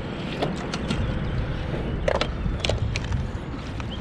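Wind rumbling on the microphone aboard a kayak, with a few light clicks and knocks, as of fishing gear handled against the hull, about half a second in and around two seconds in.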